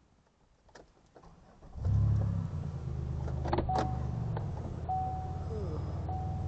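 Car engine starting after a few key clicks, about two seconds in, then idling steadily. A few short electronic beeps sound over the idle.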